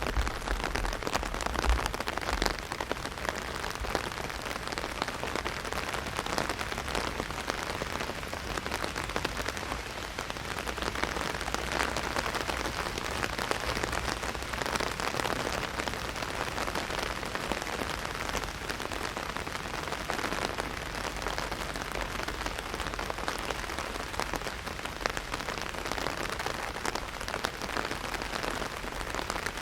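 Heavy rain hitting an umbrella overhead: a dense, steady stream of drop impacts.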